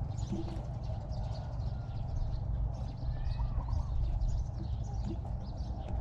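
Outdoor ambience: a steady low rumble, with several short chirping and warbling animal calls over it.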